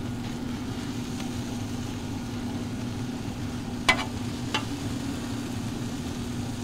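Shredded beef and onions sizzling on a hot Yoder griddle skillet over a steady low hum, with a metal spatula clicking against the griddle twice about four seconds in as the meat is spread out.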